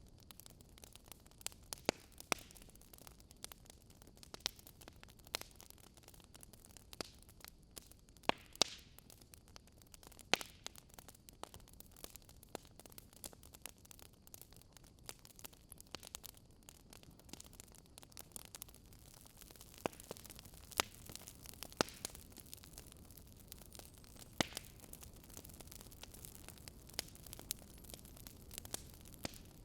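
Campfire burning: wood crackling and popping in sharp, irregular snaps over a faint low hiss, which rises a little about two-thirds of the way through.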